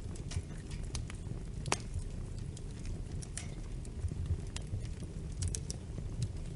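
Wood fire crackling: irregular sharp pops and snaps over a steady low rumble of flames, with one louder pop a little under two seconds in.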